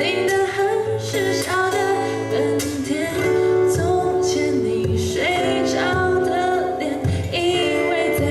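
A female voice singing a song, accompanied by two guitars, with held sung notes over picked and strummed chords.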